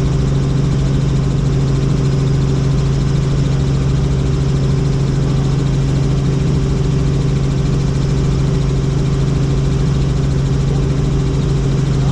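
Helicopter in flight heard inside the cabin: a loud, steady drone with a strong low hum that holds the same pitch throughout.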